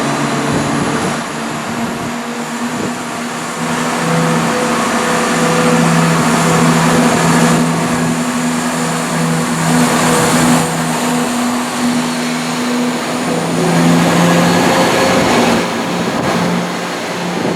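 Diesel train's engine running, a steady hum of several tones over a rushing noise, the pitch shifting slightly now and then.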